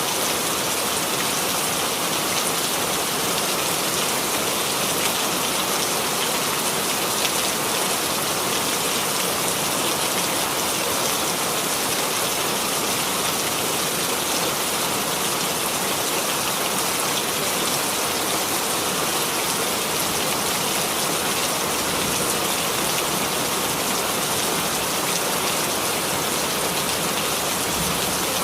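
Steady rain falling and pattering on a surface, a dense even hiss of many small drops that does not change.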